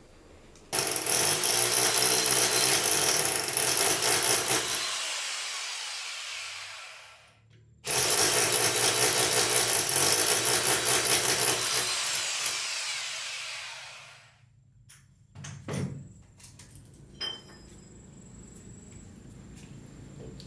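Electric power drill run twice, each time starting suddenly at full speed, then winding down over a few seconds after the trigger is released. A few light knocks follow near the end.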